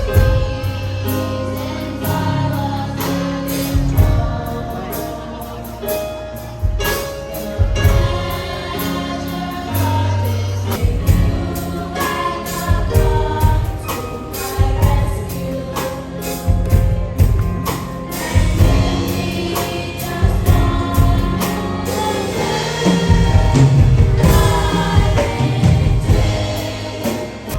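Gospel choir singing with band accompaniment, a heavy bass line and drum hits underneath.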